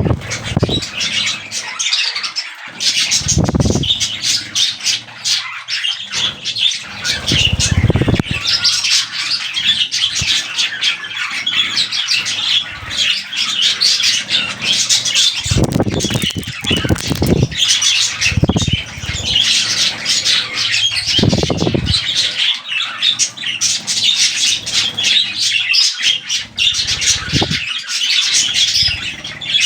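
Budgerigars chattering and warbling without a break, a dense run of high squawks and chirps, with several short bursts of wing flapping.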